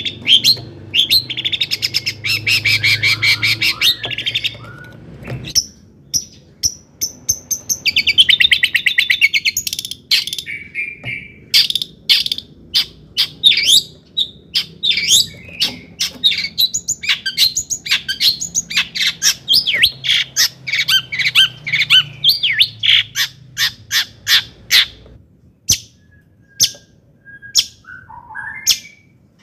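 Long-tailed shrike singing. It gives two fast, rattling trills in the first ten seconds, then a long run of quick, sharp chirps, and it tails off into a few fainter short whistles near the end.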